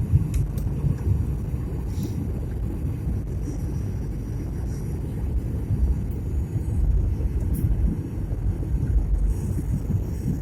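Steady low rumble of an airliner's engines and airflow heard from inside the passenger cabin as the plane comes in to land.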